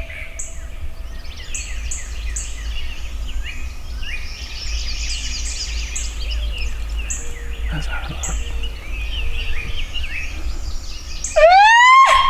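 Woodland songbirds chirping and singing, with a low wind rumble on the microphone. Near the end a loud, long pitched call with a rising start cuts in over them.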